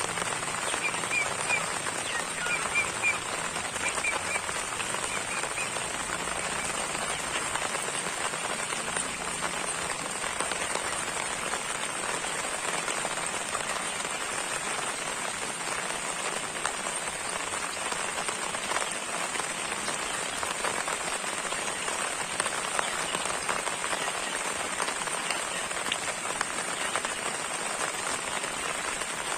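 Steady rain falling, an even hiss throughout. A few faint short high chirps come in the first several seconds.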